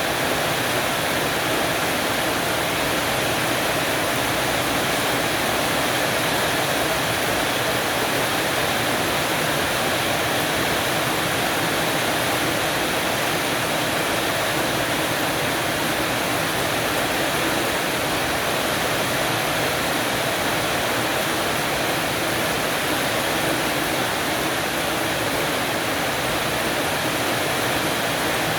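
Heavy rain falling on a porch roof, a steady, even hiss of downpour.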